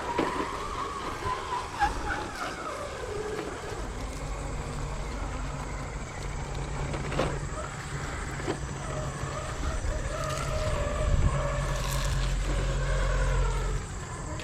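Radio-controlled rock crawler's electric motor whining, rising and falling in pitch as the truck crawls, over a low steady hum that cuts off near the end.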